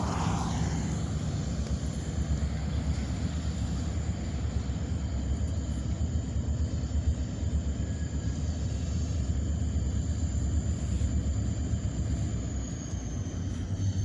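Diesel-electric EMD GP-series locomotives running, a steady low engine rumble.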